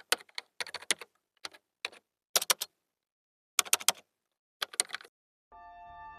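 Typing key clicks in short bursts of a few quick strokes with pauses between, like a typewriter. About five seconds in, soft music with sustained notes begins.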